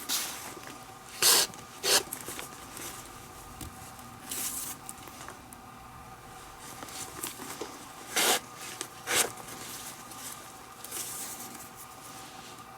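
Leather lace being drawn through the lace holes of a baseball glove: short rasping zips of the lace rubbing through the leather, two quick pulls near the start and two more later on, with fainter rustles between.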